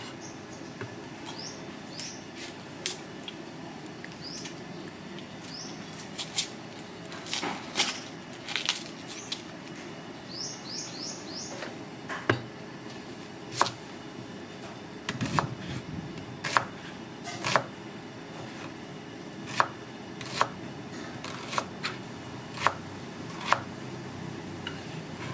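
Kitchen work: sharp knocks and taps of utensils or a knife, coming about once a second in the second half, over a steady low background din. A few short rising high chirps sound in the first half.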